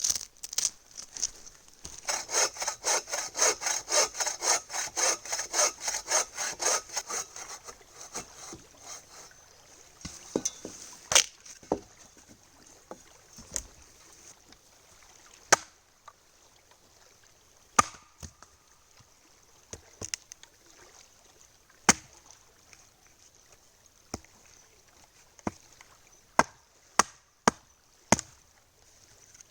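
Hand saw cutting firewood in quick back-and-forth strokes, about three a second, for several seconds. Then sharp single knocks every couple of seconds as the wood is split.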